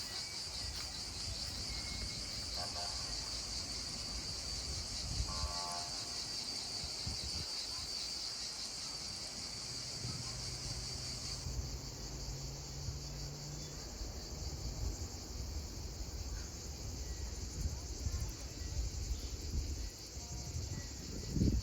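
Chorus of insects: a high-pitched, rapidly pulsing buzz, steady throughout, over a low rumble.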